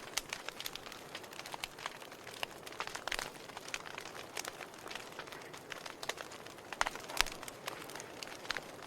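Wood fire burning in a fireplace: a steady hiss with irregular sharp crackles and pops from the burning logs, a few louder pops about a second in, near three seconds and around seven seconds.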